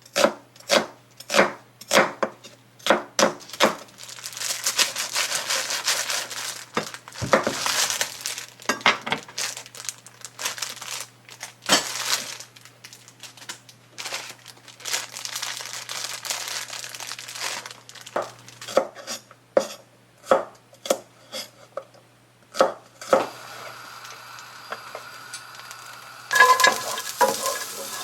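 Kitchen prep sounds: a knife chopping on a cutting board at a steady pace at the start, then stretches of crinkling like plastic packaging being handled, with scattered knocks of utensils. Near the end food starts sizzling in a hot pan.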